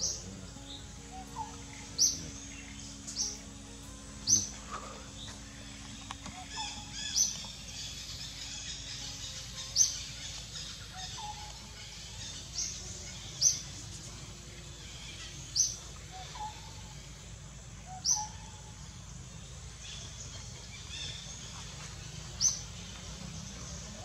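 A bird giving short, sharp, high chirps, one every two to three seconds, over a faint outdoor background.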